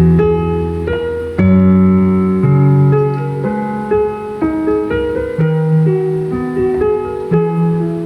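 Piano music: a slow melody over chords, a new note or chord struck about every half second to a second and left to fade.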